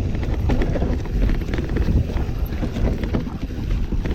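Mountain bike riding down a rough trail: wind buffeting the microphone over a steady low rumble of tyres on dirt, with frequent short rattling clicks and knocks.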